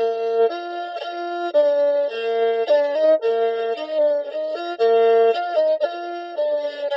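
Background music: a melody on a Hmong raj flute, its notes changing about every half second over a lower held line.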